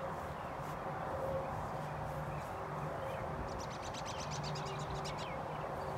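Faint outdoor ambience: small bird chirps and a quick run of fine ticking about three and a half seconds in, over a steady low hum.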